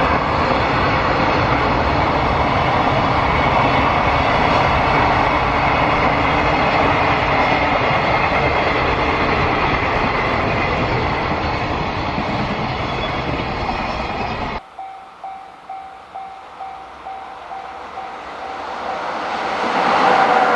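Freight train running past, a loud steady rumble and rattle of wagons on the rails. About fifteen seconds in it cuts off abruptly to a quieter scene with a tone pulsing about twice a second, as another train approaches and grows louder near the end.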